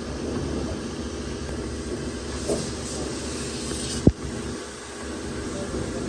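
Car wash machinery running with a steady hum, with hissing spray for about a second and a half midway and a single sharp click about four seconds in.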